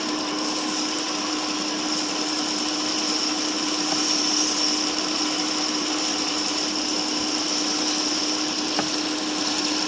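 Jeep Grand Cherokee engine idling with the air conditioning on high, a steady whir from the engine bay with an even hum and a high whine running through it.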